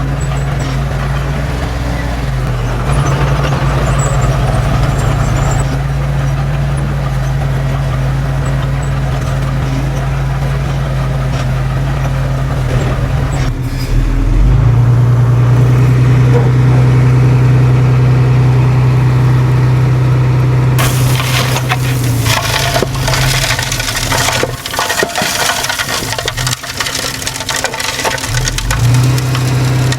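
Diesel engine of heavy earthmoving machinery running under load, getting louder about halfway through. In the second half it is joined by a steady run of loud cracking and crunching, as of material being crushed.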